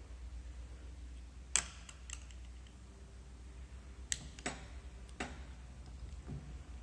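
Light, sharp metal clicks and taps, about six spread out, as a scriber is worked around a brake caliper bore to pick out the piston seals. A low steady hum runs underneath.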